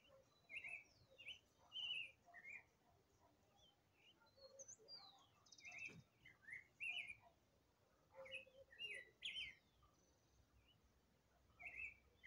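Songbirds singing faintly in short phrases of quick chirping notes, a group about every two to three seconds with pauses between. A faint click about halfway through.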